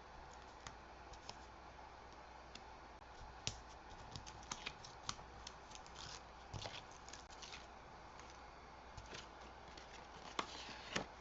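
Faint, scattered small clicks and taps of paper craft pieces being handled and pressed into place, in a quick irregular run through the middle and again near the end.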